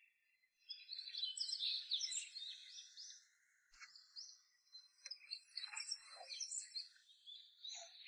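Faint wild birdsong: many short chirps and quick up-and-down whistles, overlapping from more than one bird, with a brief lull a little before the middle.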